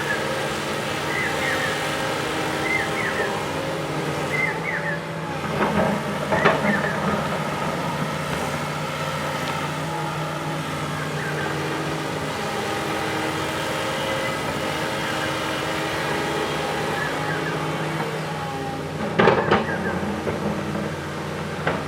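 Backhoe loader's diesel engine running steadily under work. Two short spells of clattering knocks break in, one about six seconds in and another near the end.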